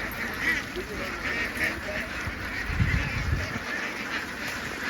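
A large flock of ducks quacking together in a steady, crowded chorus, with a low rumble of thumps about three seconds in.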